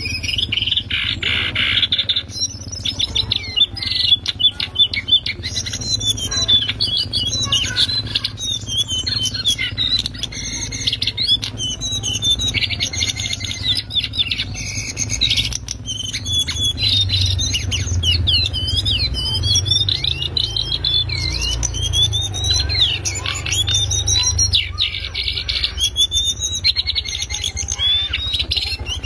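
Cingcoang coklat, a shortwing, singing loudly and without pause: a fast chattering stream of high, sliding whistled notes. A low steady hum runs under it.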